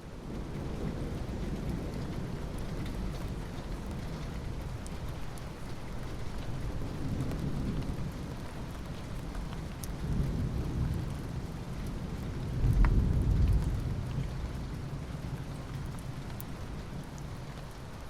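Steady rain hissing, with low rumbles of thunder rolling underneath; the loudest rumble comes about two-thirds of the way through. A few sharp drop ticks stand out.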